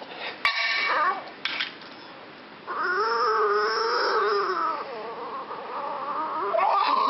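A dog vocalising: a short falling call about half a second in, then a long wavering call of about two seconds, and another that rises near the end.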